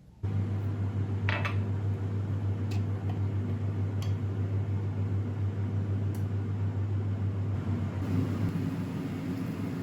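An electric kitchen appliance switching on with a knock and then running with a steady low hum, with a few light clicks over it.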